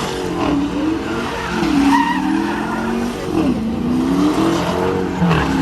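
A car doing a burnout or donut show: the engine revs up and down again and again while the tyres squeal and skid.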